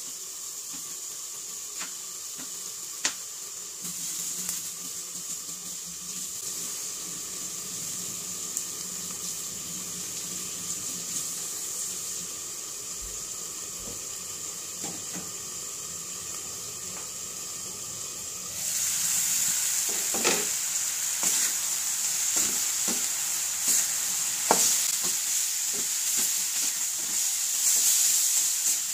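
Chunks of pork sizzling in a wok over a gas burner, first under a glass lid. About two-thirds of the way through, the sizzle suddenly gets louder as the pan is uncovered. A wooden spatula then clacks and scrapes against the wok as the meat is stirred.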